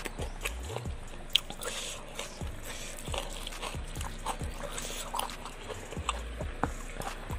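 Eating sounds of a person eating grilled fish with chili sambal by hand: chewing, lip smacks and small wet clicks in an irregular string.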